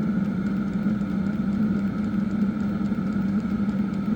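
Diesel air heaters running: a steady fan and burner hum, with faint regular ticking from the fuel pump.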